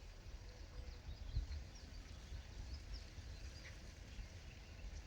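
Faint, short calls of gulls scattered over a steady low rumble of wind on the microphone, with a stronger gust about a second and a half in.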